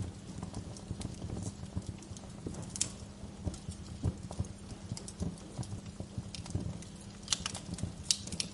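Wood fire crackling in a fireplace: a dense, irregular run of soft low knocks and small snaps, with a few sharper, louder pops near the end.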